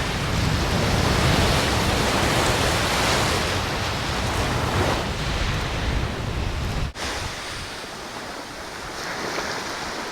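Wind buffeting the microphone over the wash of surf, with a sudden break about seven seconds in, after which it is quieter.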